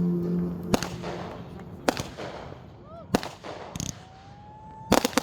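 Fireworks bursting overhead: about six sharp bangs spread over a few seconds, with a short rising whistle in the middle and a longer rising whistle just before a quick double bang near the end. A held note of background music fades out in the first second.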